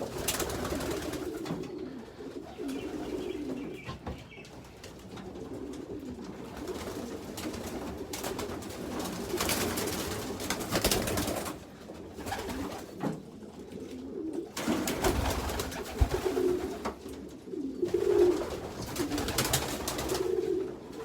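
Young racing pigeons cooing in a loft, a continuous low warbling, with several bursts of rushing noise over it.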